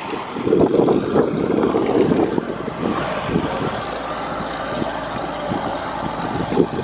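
Towboat engine running steadily while towing a broken-down sailing catamaran, whose own engine has died.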